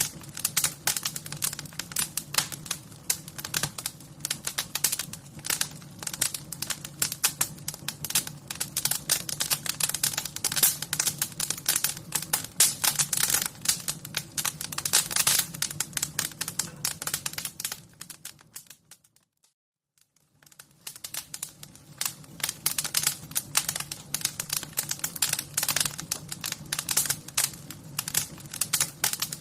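Fire crackling: dense, irregular pops and snaps over a low steady rumble. About two-thirds through, it fades to near silence for a second or two, then fades back in.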